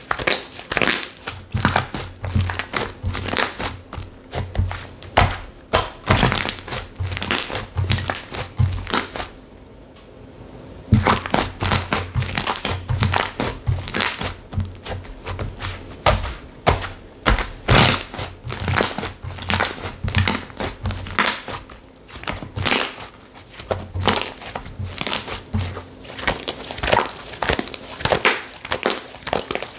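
Slime being squeezed and pressed by hand, making a rapid run of crackling, popping clicks that stops briefly about a third of the way in.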